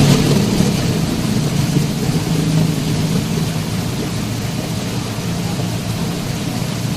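Steady, loud rushing water with a deep rumble underneath, strongest at the start and easing slightly.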